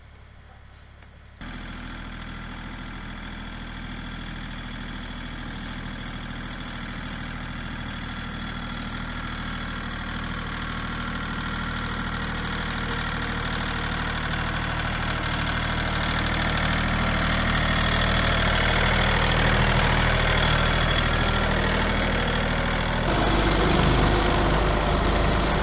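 Small tractor's engine running steadily, growing gradually louder over many seconds. Near the end the sound suddenly turns rougher and louder, with more low rumble.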